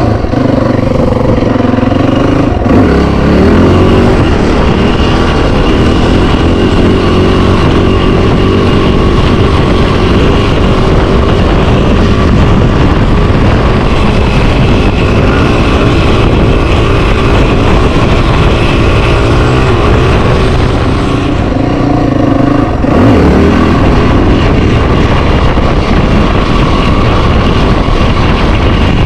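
Yamaha WR450F dirt bike's single-cylinder four-stroke engine, bored out to 480 cc, pulling under throttle through a long wheelie. The revs climb in the first few seconds, hold mostly steady, then dip briefly about three-quarters of the way through before rising again.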